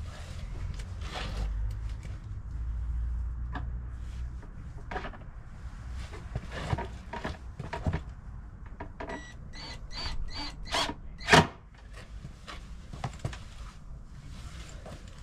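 A series of irregular knocks and clicks from hands-on work, with one sharp, loud knock about eleven seconds in, over a low rumble that fades after the first few seconds.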